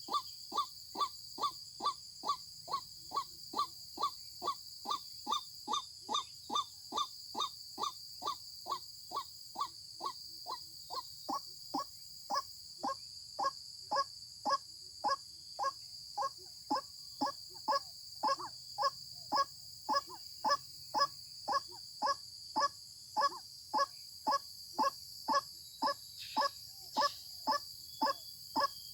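White-breasted waterhen calling: a steady run of short, repeated 'kwak' notes, about two a second, over a steady high-pitched hum.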